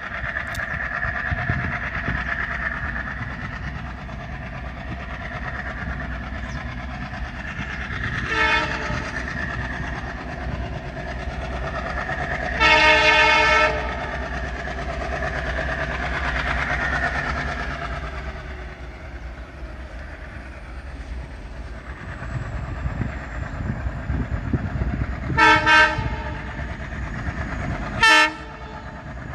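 Indian Railways diesel locomotive and train running with a steady low engine and rail rumble, sounding its air horn: a short blast about eight seconds in, a long loud one around thirteen seconds, and three short blasts in the last few seconds.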